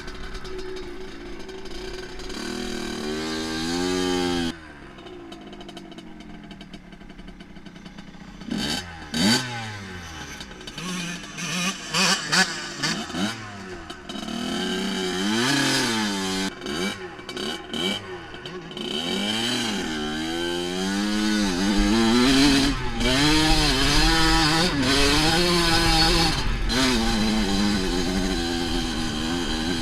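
Dirt bike engine revving, its pitch climbing and falling again and again as the bike accelerates and the throttle is let off. It drops suddenly to a quieter running stretch about four seconds in, then picks up with repeated blips and runs at sustained high revs later on.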